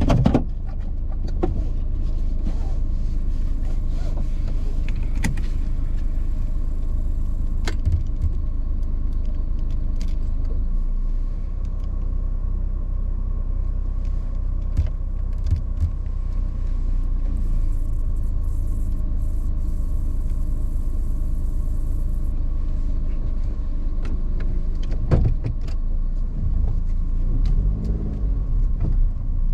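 Car driving along a forest road: a steady low rumble with scattered knocks and clicks, a louder knock about 25 seconds in.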